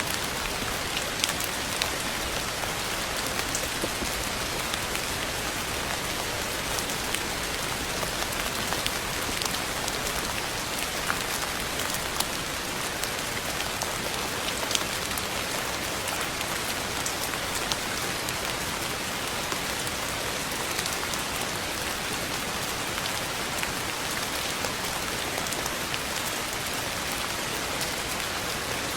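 Steady rain falling on a hard surface, a dense even hiss with scattered individual drops ticking through it.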